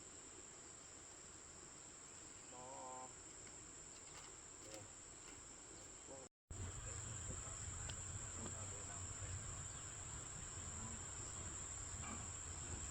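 Steady high-pitched shrilling of insects, unbroken except for a brief dropout about halfway through. After the dropout a low rumble joins it.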